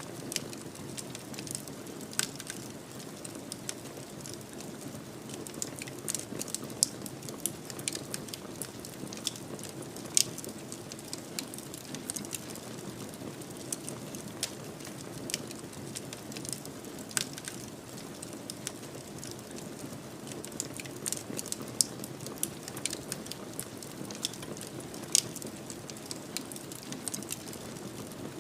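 Fireplace fire burning with a steady low rush, and irregular sharp crackles and pops scattered throughout, a few of them much louder than the rest.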